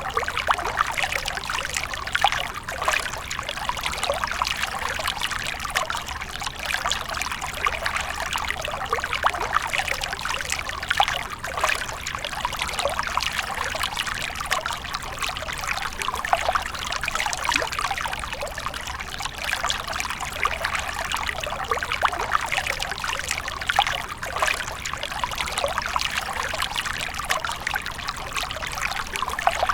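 Water fountain splashing and trickling continuously, an even stream of small splashes.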